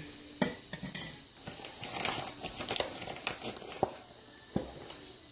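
A spoon clinking and scraping against kitchen containers, with a few sharp clinks and a stretch of scraping in the middle, as ingredients are measured into a sauce.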